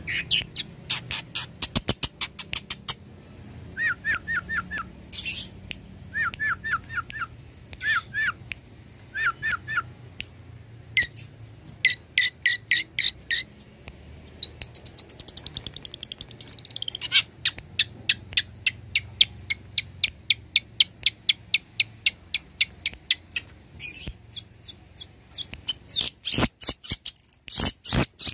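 Long-tailed shrike singing a varied mimicking song: quick runs of sharp chattering notes and trills, broken by short groups of whistled notes, with a long rapid train of clicking notes in the second half.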